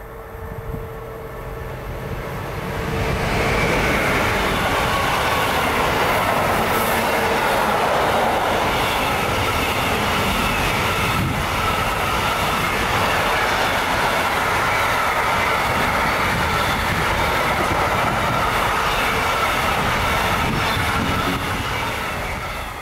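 Freight train of container and tank-container wagons rolling past: steady rumble and clatter of the wagons' wheels on the rails, with a high wavering squeal from the wheels in the curve. It builds over the first three seconds or so as the train arrives, then stays loud and even.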